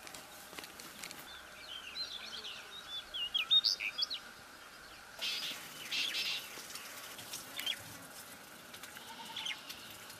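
Small birds chirping outdoors: a quick run of short rising and falling chirps about two seconds in, then a couple of brief rustling noises around the middle.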